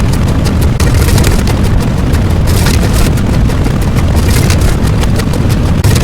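A very loud, dense, heavily distorted sound effect, continuous and heavy in the bass, with brief dips about a second in and near the end.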